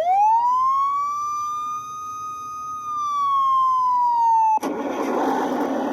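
Toy police car's electronic siren: one wail that sweeps up quickly, holds, and sags slightly, then cuts off abruptly about four and a half seconds in and gives way to a steady noisy hiss.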